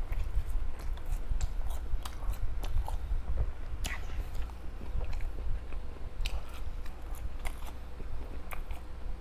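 Close-up chewing and biting of homemade fishballs and veggie balls: wet mouth smacks and small clicks scattered irregularly over a steady low rumble.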